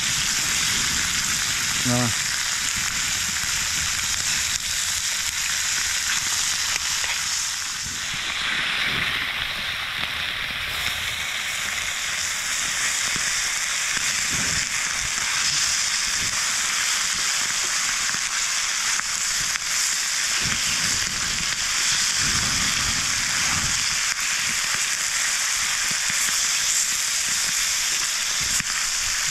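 Food frying in a pan, a steady sizzling hiss that eases briefly about a third of the way through.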